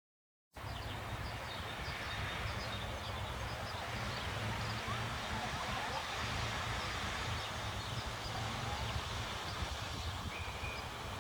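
Wind blowing through a eucalyptus tree, a steady rustle of leaves with wind rumbling on the microphone, starting abruptly about half a second in. A few faint high chirps sound over it.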